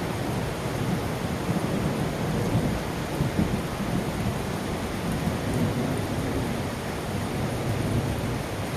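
Heavy rain falling in a thunderstorm, a steady hiss over a low, continuous rumble of thunder.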